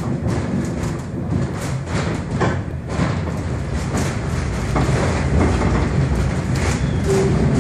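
Passenger car of a tourist railroad train rolling along, heard from inside the car: a steady low rumble with irregular clicks and knocks from the wheels and the rattling car.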